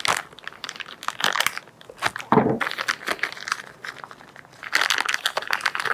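Irregular crackly handling noise with many sharp clicks, from fork parts and their packaging being handled on the bench, with a heavier knock about two and a half seconds in.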